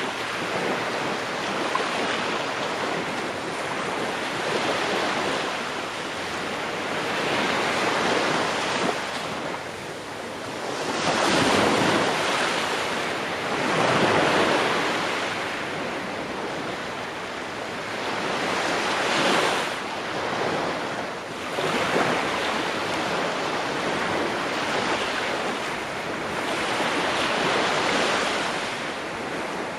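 Ocean waves breaking and washing on the shore, surging and receding every few seconds, with the biggest swells a little before the middle.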